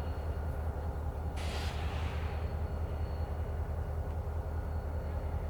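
Diesel locomotive idling with a steady, pulsing low rumble, and a brief hiss of air about a second and a half in that fades away.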